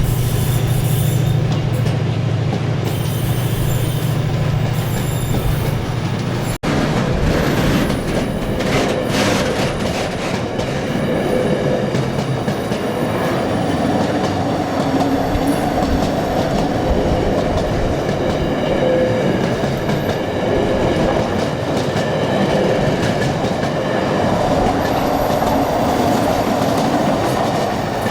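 A train passing close by. A steady low engine hum breaks off sharply about six and a half seconds in, then the train runs past with rhythmic clatter over the rail joints and a faint steady wheel squeal.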